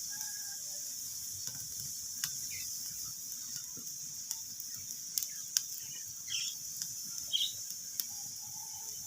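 Wood fire burning in a fireplace: a steady hiss with scattered sharp crackles and pops, and a few brief high squeaks.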